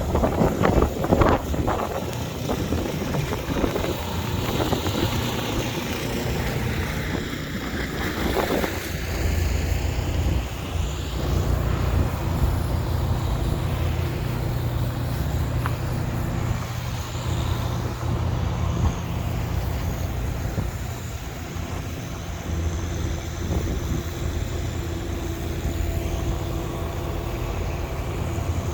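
Street traffic with a large vehicle's engine running steadily, with a few knocks in the first second and a half.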